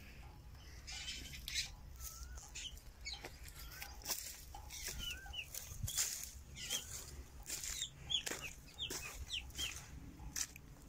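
Birds chirping outdoors: many short, curling calls come thick and fast, more of them in the second half, among frequent sharp clicks and rustles and a steady low rumble.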